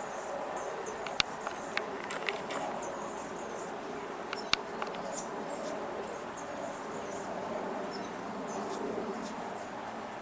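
Small songbirds giving many short, high chirps over a steady background hum, with a few sharp clicks near the start and about halfway through.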